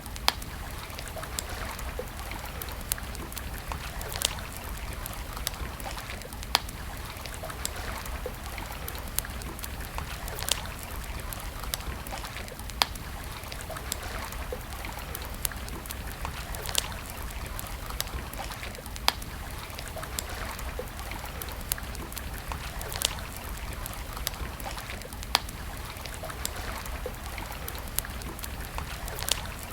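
Wood campfire crackling: a steady hiss of burning with sharp pops every couple of seconds, about a dozen in all.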